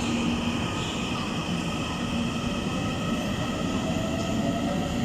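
Taiwan Railways EMU900 commuter electric train pulling out of a station: steady running noise with a low hum and faint tones that start to rise near the end as it gathers speed.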